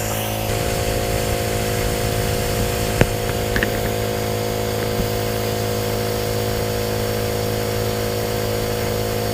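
Small portable air compressor running steadily with an even hum, pumping air into an engine's inlet manifold to pressurize it for a vacuum-leak check. A single sharp click about three seconds in.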